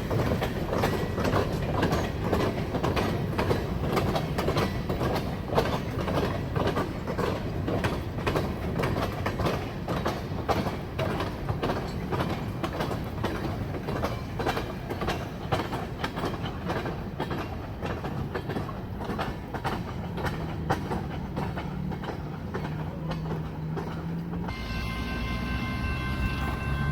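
Freight train cars rolling past, their wheels clicking rapidly and steadily over rail joints. The clatter cuts off abruptly near the end, giving way to steady high tones.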